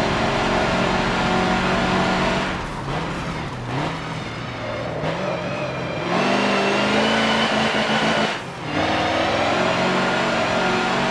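Mercedes-Benz racing truck's diesel engine running hard under power. It eases off about two and a half seconds in, with its pitch climbing in steps as it pulls again. It comes back on full power about six seconds in, with a brief drop about eight and a half seconds in.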